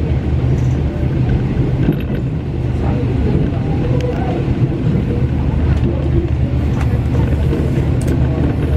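KTM Shuttle Tebrau train running, heard inside the passenger coach: a steady, deep rumble of wheels on rail, with a few faint clicks over it.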